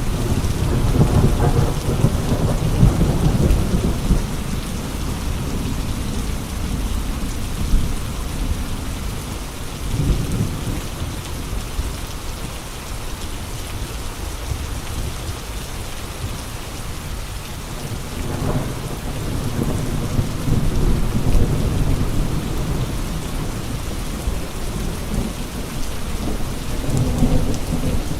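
Steady rain falling, with low rumbling surges of gusting wind that swell and fade several times.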